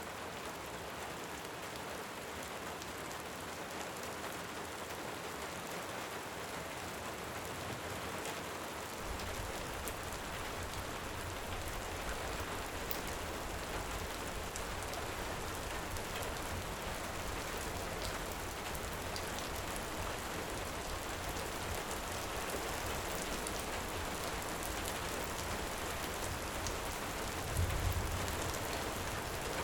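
Steady rain falling on a surface, with scattered small crackles of a fire. A low rumble of distant thunder comes in about nine seconds in, swelling briefly louder near the end.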